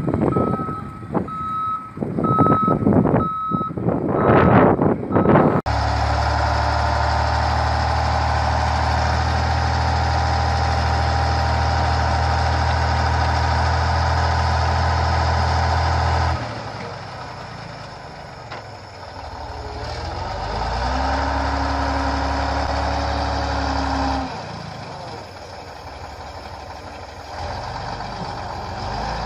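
A truck's reversing beeper sounding about twice a second over loud, surging noise, then, after an abrupt cut about six seconds in, a heavy truck engine running steadily, its tone changing a few times.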